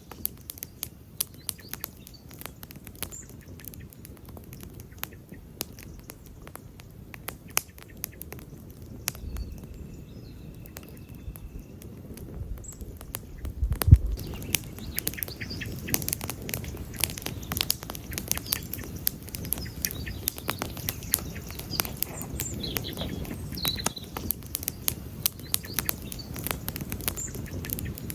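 Wood campfire crackling, with sharp snaps and pops scattered throughout and growing denser in the second half, and one louder pop with a low thump about halfway through. A few faint high chirps sound now and then.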